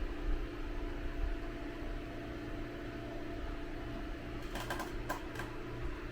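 Steady low mechanical hum, with a quick cluster of several sharp clicks about four and a half to five and a half seconds in.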